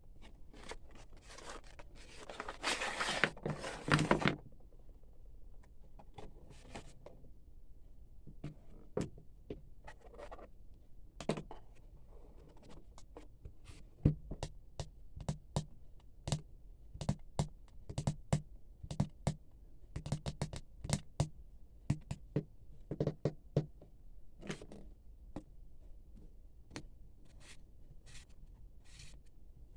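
Unboxing handling of packaging and plastic parts. A loud scraping, rustling stretch lasts about two seconds, then comes a long run of small sharp clicks and taps.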